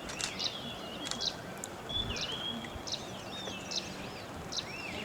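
Small birds chirping, many short high notes and whistled rising-and-falling calls repeating over a steady low background noise.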